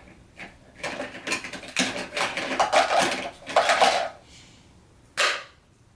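Small plastic toy rocks clattering as they are dropped into a plastic toy dump truck: a dense run of rattling clicks for about three seconds, then one more short rattle near the end.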